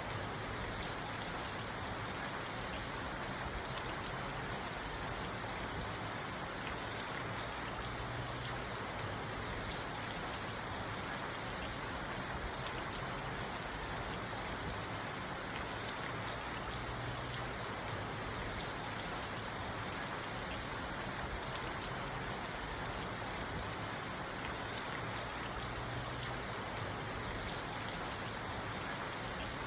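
Steady rain falling on a parked car, heard from inside the car, with scattered drops ticking on the body and glass.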